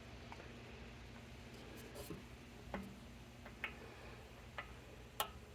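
Small sharp clicks and taps of a scooter fuel petcock's small parts being handled and fitted by hand, about five in the second half, the last the loudest.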